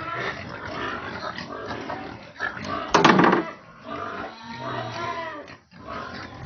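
Pigs vocalising, with one loud squeal about three seconds in.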